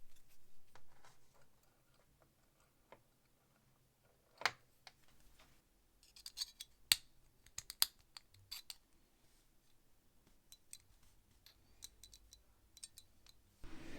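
Small metal lighter parts being handled: scattered sharp clicks and light scrapes, with one loud click about four and a half seconds in and a quick run of clicks a little later.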